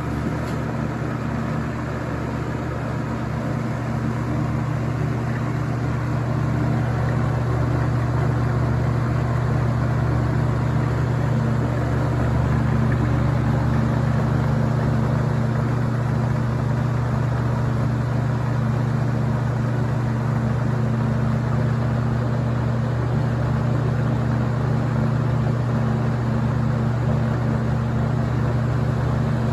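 Early-1990s Toastmaster 4437 box fan running on high speed: a steady motor hum under the rush of air from the blades, building slightly over the first few seconds. The blades are out of balance, so the fan runs with a vibration.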